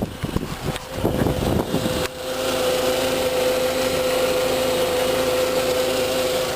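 2003 Volkswagen Jetta's 2.0-litre four-cylinder engine running, heard from outside the car: uneven rustling noise for the first two seconds, then a steady, even hum.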